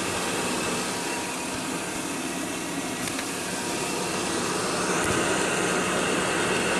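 Jones & Shipman 1310 cylindrical grinder running with its hydraulics and grinding wheel on: a steady mechanical whir and hiss that grows a little louder about five seconds in.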